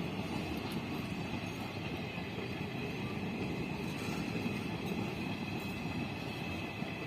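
Indian Railways train running along the track: a steady rumble of wheels on rail, with a thin, steady high tone above it.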